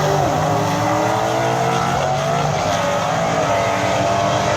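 Two drag cars running side by side down the strip at full throttle, several engine notes at high revs, their pitch wavering and shifting as they pull.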